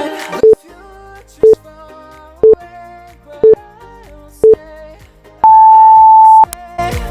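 Workout interval timer counting down: five short beeps a second apart, then one longer, higher beep, over faint pop music.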